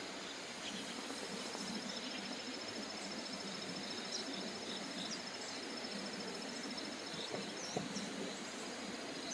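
Countryside ambience: an insect's fast, even trill runs over a steady background hiss, with a few short bird chirps.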